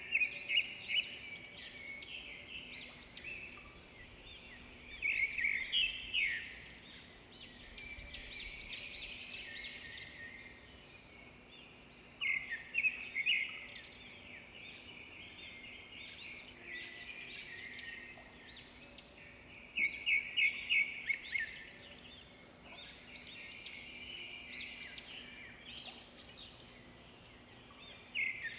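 Several songbirds chirping and singing, with louder phrases of rapid repeated notes every few seconds over steady background twittering.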